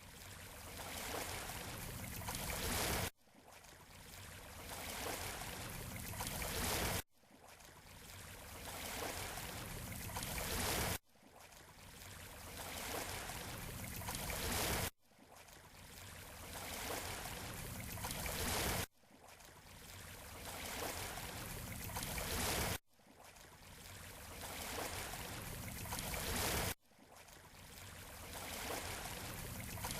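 Surf washing up on a beach, made into a short loop. About every four seconds a wash of water swells up, cuts off suddenly and starts again after a brief gap.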